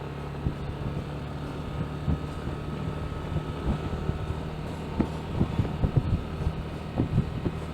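Motorcycle engine running at a steady pitch while riding, with wind on the microphone. From about halfway on, a scatter of short knocks and thumps joins it.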